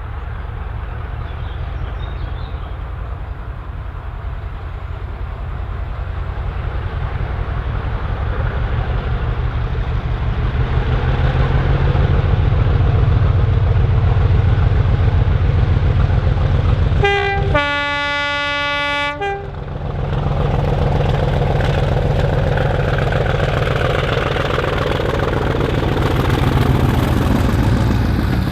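A diesel locomotive's engine runs heavily, growing louder over the first dozen seconds as it comes near. About two-thirds of the way in it sounds its horn once for about two seconds, then the engine carries on.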